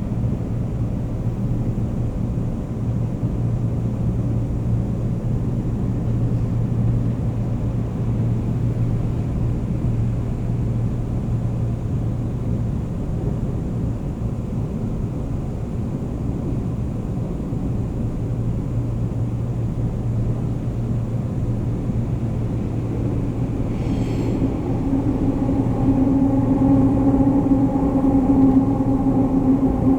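Seoul Line 9 subway train running between stations, heard from inside the car as a steady low rumble and hum. About 25 seconds in, a steady humming tone joins in and the sound grows a little louder.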